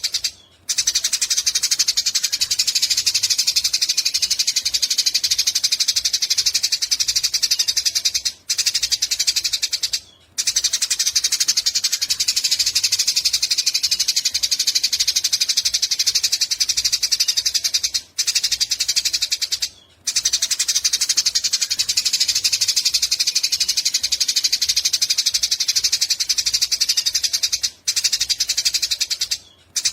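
Eurasian tree sparrow chattering in long, fast trills of rapidly repeated high notes (the long "nyecret" chatter), broken by brief pauses about every eight to ten seconds.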